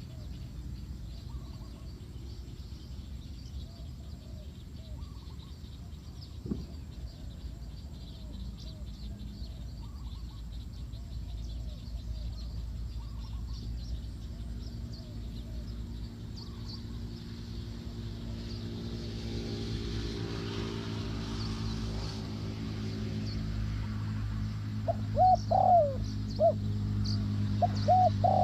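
Spotted dove cooing in short repeated notes, growing louder in the last few seconds, with small birds chirping high above it. A low steady hum builds up under the calls from about two-thirds of the way in.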